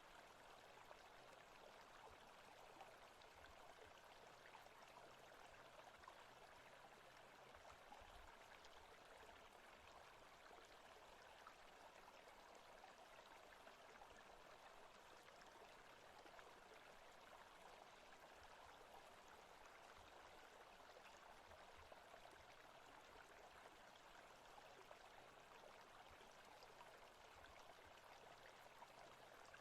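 Faint, steady forest-stream ambience: running water with no changes or breaks.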